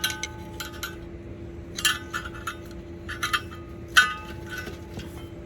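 Metal tools and parts clinking against each other in a handful of scattered strikes with brief ringing, the sharpest about four seconds in, during work to line up an engine's flywheel with the torque converter. A steady low hum runs underneath.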